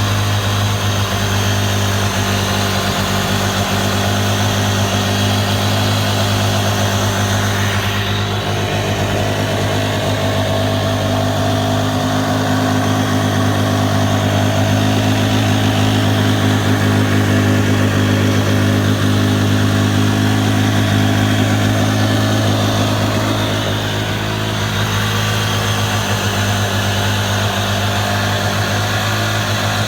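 Yamaha 701 two-stroke twin jet-ski engine idling steadily.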